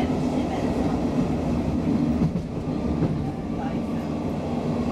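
Running noise heard inside an ABB X10p electric railcar on the move: a steady rumble of the wheels on the track with a constant hum, easing slightly midway.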